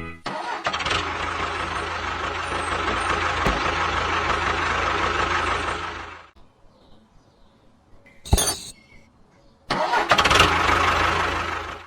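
A DIY mini tractor's small motor runs steadily for about six seconds and stops. After a single sharp knock it runs again for about two seconds.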